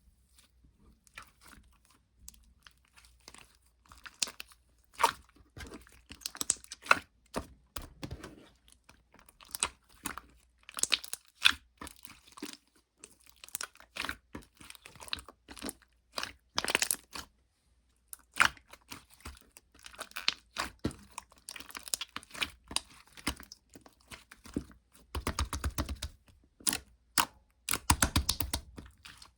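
Hands squeezing, stretching and poking slime, giving irregular runs of sharp sticky clicks and crackles, densest near the end.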